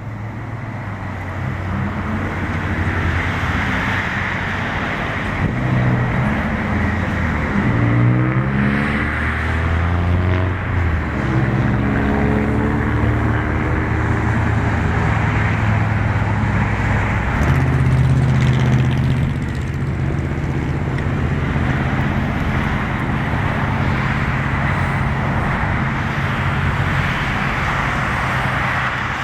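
Military aircraft engines, loud and continuous as the aircraft passes, with a steady low drone under a broad rush and a sweeping, phasing tone between roughly 6 and 13 seconds in.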